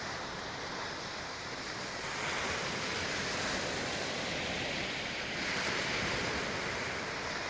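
Sea surf washing onto the shore, a steady rush of breaking waves that swells a little about two seconds in and again past five seconds.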